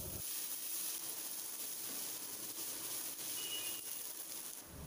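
Sliced vegetables sizzling in a hot frying pan as they are stir-fried: a steady hiss.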